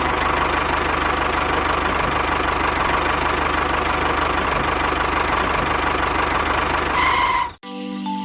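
Tractor engine running steadily at idle with a rapid knocking beat. It cuts off suddenly about seven and a half seconds in, and a short mallet-percussion tune begins.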